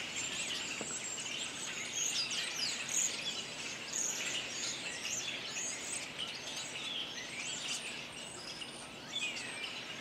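Small songbirds chirping and twittering: many short, high calls overlapping, fairly faint.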